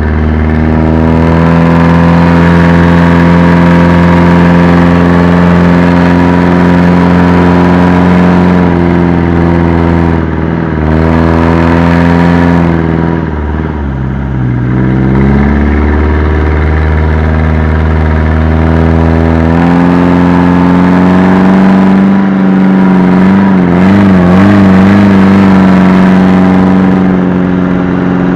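Mercedes-Benz 240D's OM616 four-cylinder diesel engine running loudly at a mostly steady pitch. Its pitch falls and climbs back about halfway through, and wavers briefly near the end.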